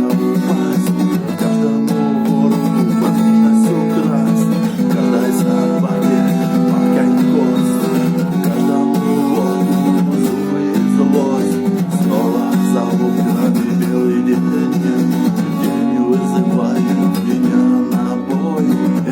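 Acoustic guitar music, an instrumental tune with strummed and plucked notes.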